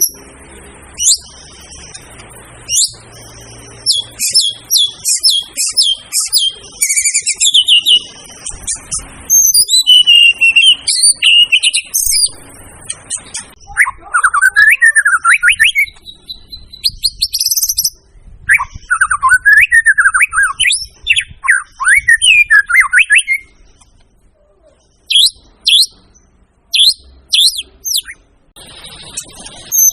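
White-rumped shama (murai batu) in full song: fast runs of whistled sweeping notes, rich lower warbling phrases, and near the end a string of sharp upswept notes, with short pauses between phrases.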